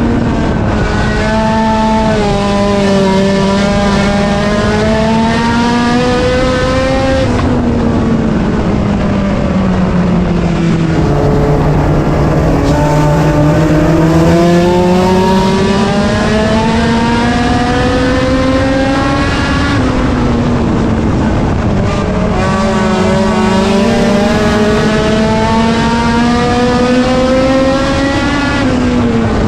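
A front-wheel-drive race car's engine running hard on track, its pitch dropping and climbing back several times as it comes off the throttle and accelerates again.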